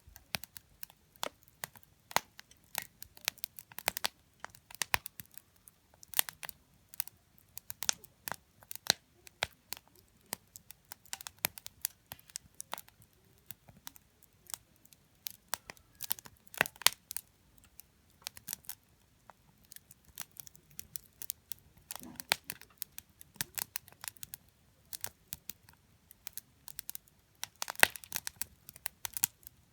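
Wood campfire crackling, with irregular sharp pops several times a second; the loudest pops come a little past halfway and near the end.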